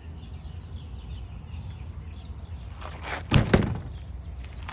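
Two sharp knocks in quick succession a little past the middle, over a steady low rumble.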